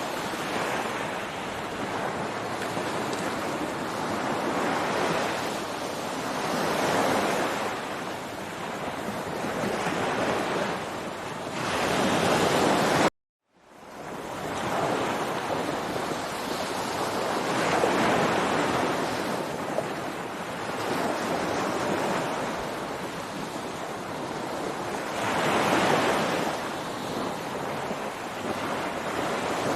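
Ocean waves washing onto a beach, swelling and easing every several seconds. About halfway through the sound cuts out for a moment, then fades back in.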